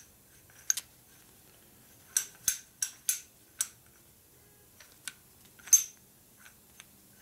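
Scattered sharp metallic clicks and clinks of small steel engine parts and hand tools being handled on a workbench, about eight separate ticks with a quick run of them a couple of seconds in.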